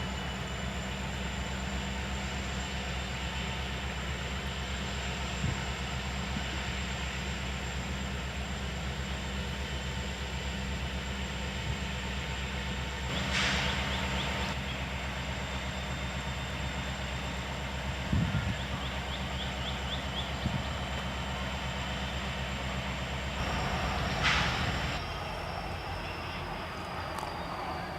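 Diesel locomotive engine running steadily at a low, even throttle, with short hisses about 13 and 24 seconds in; the engine sound drops away near the end.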